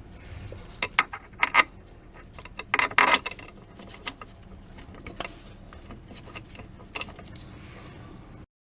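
Hand tools clicking and clattering during work on the car: a few sharp clicks in the first second and a half, a dense rattle about three seconds in, then scattered lighter clicks. The sound cuts off abruptly near the end.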